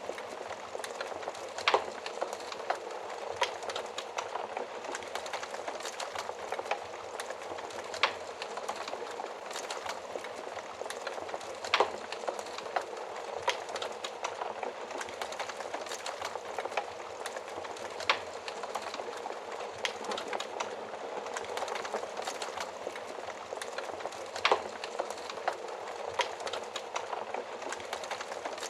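Wood fire burning in an oven: a steady hiss of flames with irregular sharp crackles and pops, a handful of them much louder than the rest.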